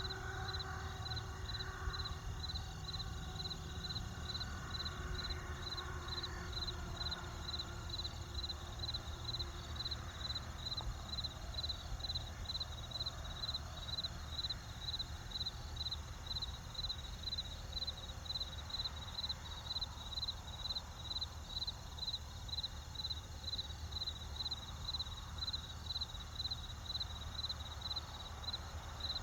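Crickets chirping in an even rhythm of about two chirps a second, over a low steady rumble.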